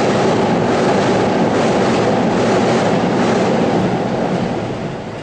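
A train running past on the rails, a steady rolling wheel noise with a faint regular clatter, fading from about four seconds in.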